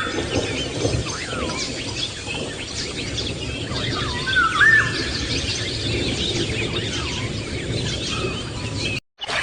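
Several birds singing and chirping over a steady outdoor background hiss. A louder whistled phrase comes about four and a half seconds in. The sound cuts out abruptly for a moment near the end.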